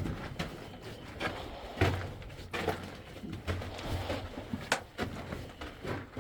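Footsteps and scrambling on loose rock and dirt: irregular crunches, knocks and scrapes at uneven intervals.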